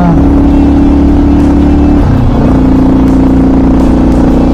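Motorcycle engine running at a steady road speed. About two seconds in its pitch dips briefly, then holds steady again slightly lower.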